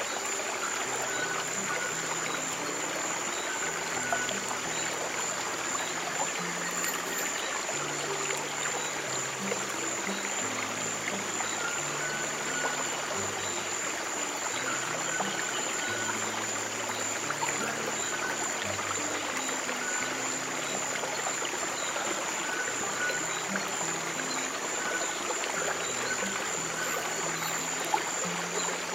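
A stream of water running steadily over slow, soft piano music with low, long-held notes.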